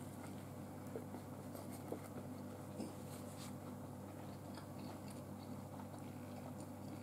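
Faint chewing of a mouthful of breaded chicken sandwich, with a few soft clicks of the bite and jaw, over a steady low hum.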